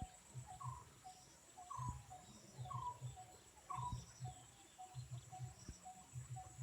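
Birds calling: a short falling note repeated about once a second, with softer short notes in between and a faint steady high whine behind them. Low soft thumps recur in pairs underneath.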